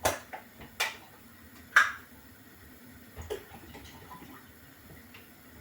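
Drink tins and a mixing container being handled in the kitchen: four sharp clicks and clinks, the loudest about two seconds in with a short metallic ring.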